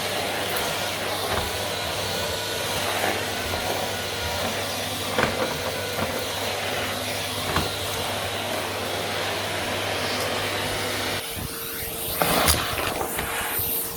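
Vacuum cleaner running steadily with a low motor hum and a few light knocks; about eleven seconds in the steady hum cuts out, followed by a few sharper knocks.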